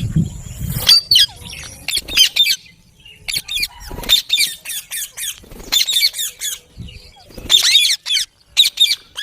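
Rose-ringed parakeets (Indian ringneck parrots) squawking, a run of short, harsh screeches in bursts.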